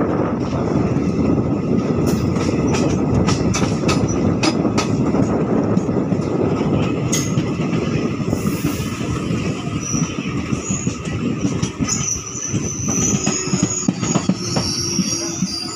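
Passenger train heard from its open door, wheels running on the rails with a steady rumble and a run of clicks over rail joints. From about ten seconds in, a high wheel-and-brake squeal sets in and grows as the train slows to stop at a station.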